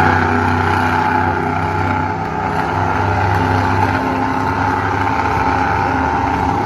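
Monster truck engine running steadily at a fairly even pitch.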